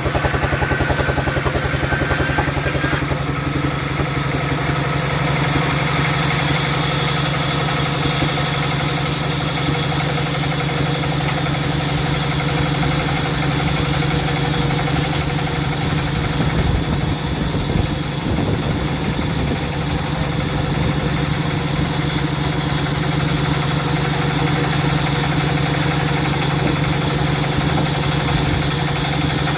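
Sawmill machinery running steadily with a constant low hum and drone.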